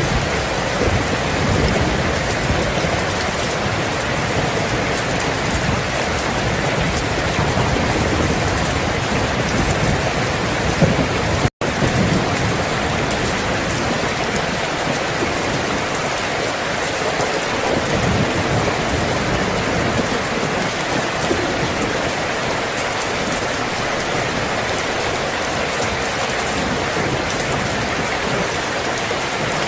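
Steady, dense rain with a low rumble under it that swells and fades. The sound cuts out for an instant about twelve seconds in.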